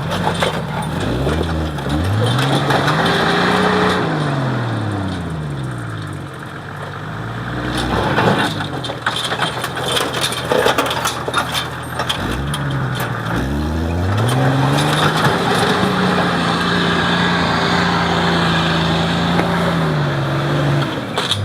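Four-wheel-drive engine revving hard under load, its pitch climbing and falling away twice, held high for several seconds the second time, over a steady noisy rush. A few sharp knocks come in the middle.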